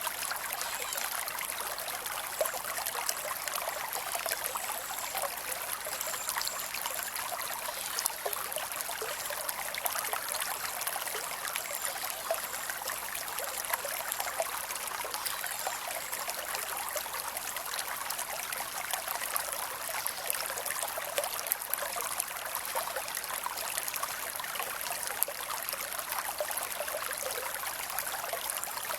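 Creek water running and trickling over rocks: a steady rush with many small splashes and droplet ticks.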